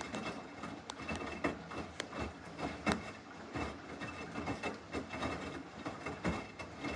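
Samsung washing machine partway through a normal wash cycle: the drum turns with the wet load rubbing and sloshing, broken by irregular knocks and clicks.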